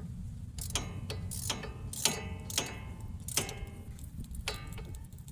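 A long wrench with a short 15 mm socket tightening a wheel-hub bolt: about seven irregular metallic clicks and clinks, each ringing briefly.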